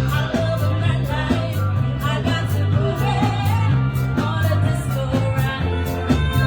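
Live band playing a rock and roll song: a singer over a stepping bass line and a steady drum beat with regular cymbal strokes.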